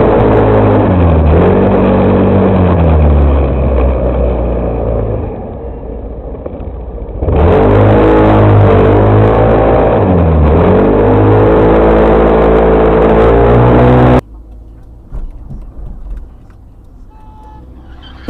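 Car engine accelerating hard through the gears, its pitch climbing and then dropping at each shift. It cuts off abruptly about fourteen seconds in, leaving faint background noise.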